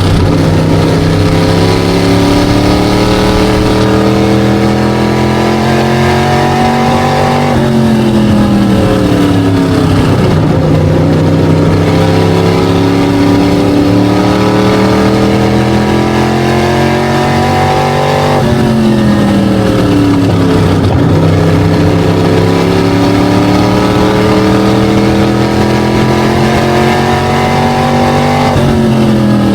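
SK Light modified race car engine at racing speed, its pitch climbing slowly under throttle, then falling sharply as it comes off the throttle. This happens three times, about every ten seconds, lap after lap.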